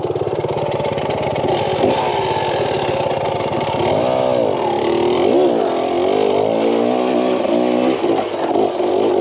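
KTM 300 XC-W dirt bike's two-stroke single-cylinder engine under way, its revs rising and falling with the throttle, in sharp sweeps about four and five and a half seconds in.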